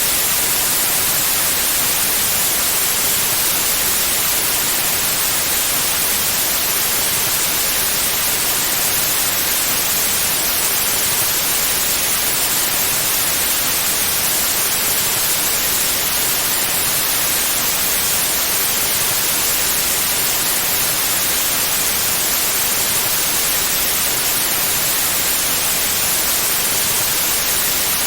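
Steady white noise: an even, unbroken hiss that is brightest in the treble.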